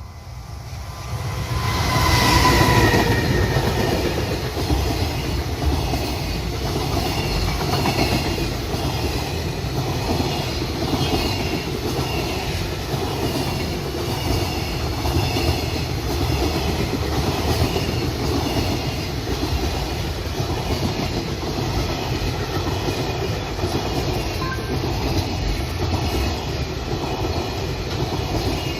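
Freight train passing close by. It builds up over the first couple of seconds as the train arrives, then the long string of wagons clatters past in a steady, even clickety-clack of wheels over rail joints.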